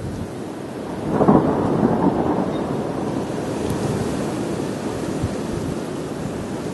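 Thundersnow: thunder in a snowstorm, breaking about a second in and rolling on as a long low rumble that slowly fades.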